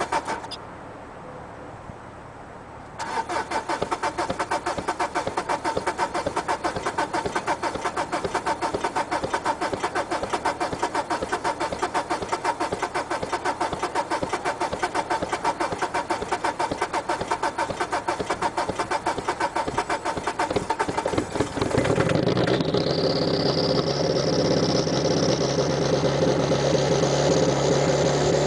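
Diesel engines in cold starts: a fast, even diesel clatter for most of the time. About 22 s in it changes abruptly to an engine running steadily, with a high whine that rises in pitch.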